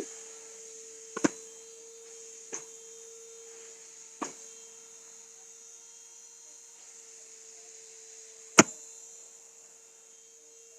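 Numatic Henry vacuum cleaner running steadily with an even motor hum and hiss, broken by a few sharp knocks, the loudest about eight and a half seconds in.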